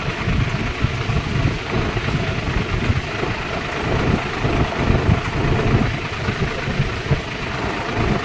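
Tractor engines running steadily, a rough low rumble.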